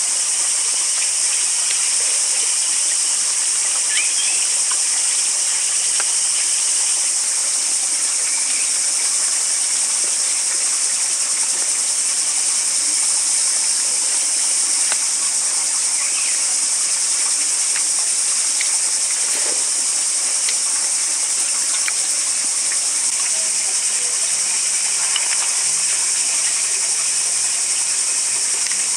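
Steady, loud insect chorus in the forest: one continuous high-pitched hiss that does not change, with a few faint short chirps now and then.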